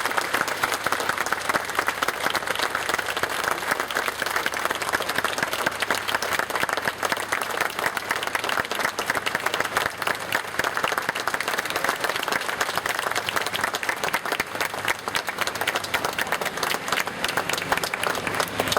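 A large crowd applauding without a break, a dense sustained patter of many hands clapping.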